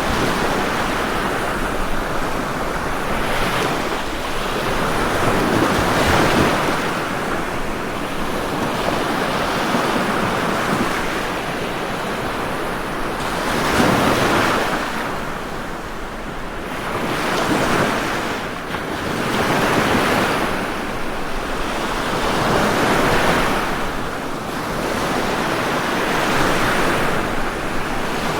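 Ocean waves breaking and washing on a shore, the surf swelling and easing every few seconds with no pause between.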